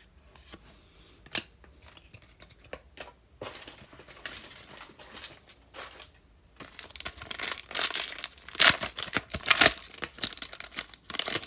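A trading-card pack wrapper being torn open and crinkled by hand: a few light clicks at first, then a stretch of rustling, and the loudest tearing and crinkling in the second half.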